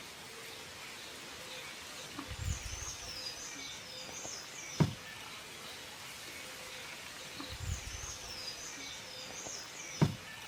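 A bird twittering in a quick run of high chirps, the same phrase coming twice about five seconds apart. Each phrase has a low thump near its start and a sharp click at its end.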